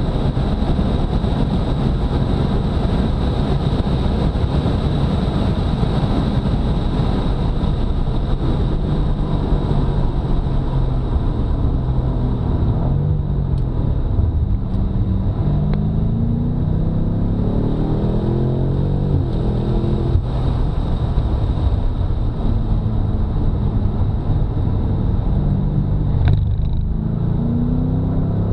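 2018 BMW F90 M5's twin-turbocharged 4.4-litre V8 pulling hard on track. The engine note runs steadily at first, then climbs in pitch for several seconds from about halfway, breaks off, and climbs again near the end as the car accelerates through the revs.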